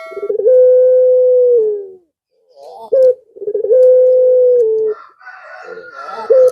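Male puter pelung dove (a long-cooing breed of ringneck/Barbary dove) cooing: two long calls, each a quick stuttering start and then a long steady note that drops slightly at the end, with a third call beginning near the end. It is a male's call to a female.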